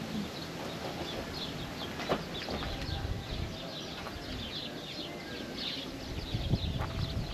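Many small birds chirping and twittering over a steady low rumble of wind, with a sharp knock about two seconds in and another near the end.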